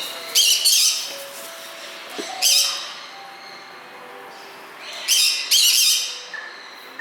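Loud, high-pitched bird squawks and calls from other birds in the aviary, in three bursts: about half a second in, near two and a half seconds, and again around five to six seconds.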